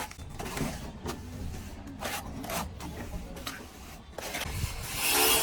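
Hand tool scraping across plaster in irregular short strokes, typical of a trowel spreading and smoothing plaster on a wall. Near the end a louder, steady hiss sets in.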